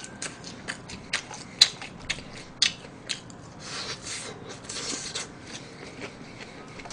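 Close-up chewing of fried food, with irregular sharp mouth clicks and smacks and a stretch of crunching about halfway through.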